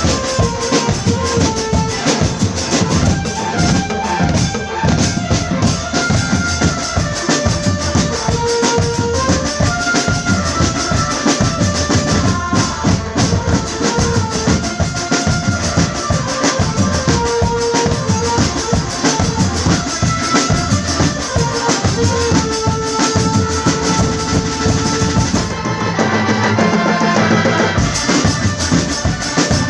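Marching drum band playing: snare and bass drums beat a steady, dense rhythm under a stepping melody line.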